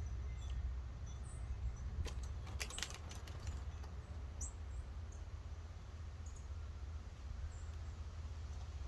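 Small birds at a feeder: a quick run of clicks and taps about two to three and a half seconds in, with short, faint, high chirps scattered through, over a steady low rumble.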